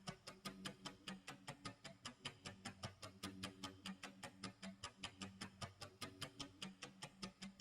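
Clock tick-tock sound effect: rapid, even ticks, about five a second, over a low pulsing tone.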